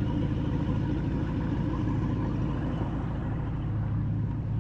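An engine running at a steady speed: a low, even drone with no change in pitch.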